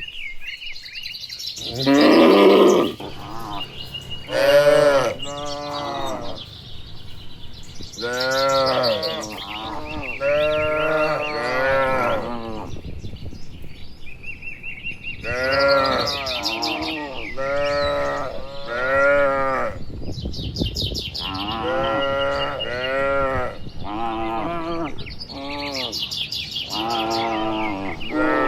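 A herd of cattle mooing. Many long, arching calls follow one another every second or two, often overlapping as the cows answer each other.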